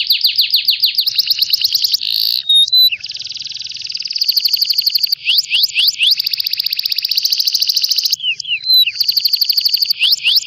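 Recorded songbird song: fast, buzzy trills of rapidly repeated notes in phrases of a second or two, broken by short whistled notes and a few quick rising sweeps about halfway through.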